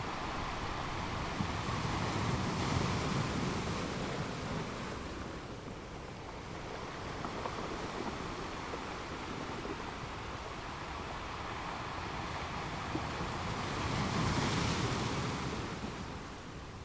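Ocean waves breaking and washing on the shore, a steady rush of surf with two larger waves swelling and receding, one a couple of seconds in and one near the end.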